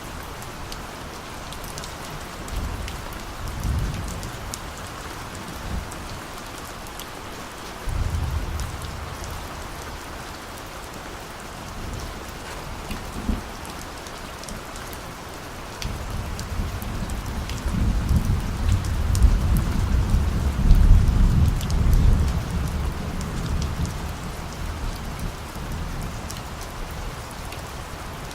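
Steady rain falling with distant thunder rumbling several times: short rumbles a few seconds in and again near eight seconds, then one long, louder roll of thunder that builds about halfway through and dies away over several seconds.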